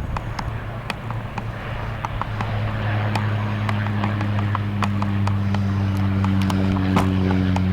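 Aircraft engines running with a steady low hum that grows louder a few seconds in, as more tones join above it. Sharp clicks are scattered throughout.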